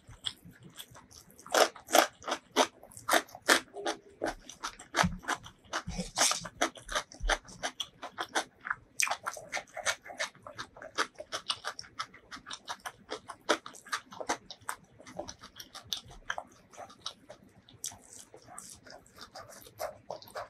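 Close-miked wet chewing and lip smacking of a mouthful of duck curry and rice, a quick run of sharp mouth clicks that thins out in the last few seconds.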